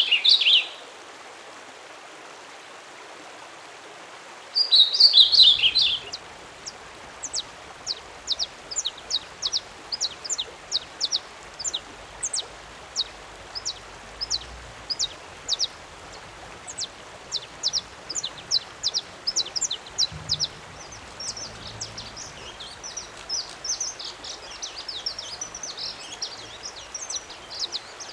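Wild songbirds singing: a loud song phrase at the start and another about five seconds in, then a long series of short, sharp, high downslurred notes, two or three a second, joined from about twenty seconds in by busier twittering.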